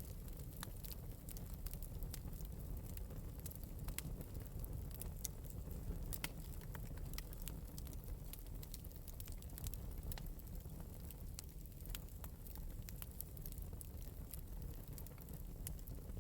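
Wood fire burning in an open metal fireplace, with a low steady rumble and irregular light crackles and pops.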